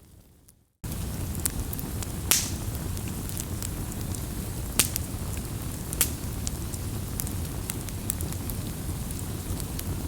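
Wood fire crackling: a steady low rumble and hiss with sharp pops every second or so, the loudest about two seconds in. It cuts in abruptly after a moment of near silence just under a second in.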